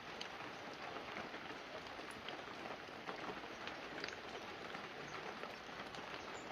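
Light, steady rain falling on banana leaves and a roof, a soft even hiss with many separate drops ticking through it.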